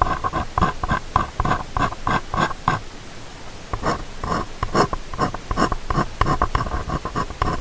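Close-miked ear-cleaning sounds: an ear-cleaning tool scraping and rubbing in short repeated strokes right at a binaural microphone, about three strokes a second, pausing briefly around three seconds in before resuming.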